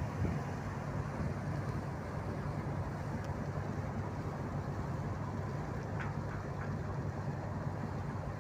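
Harbour tugboat's diesel engine running steadily, a constant low hum.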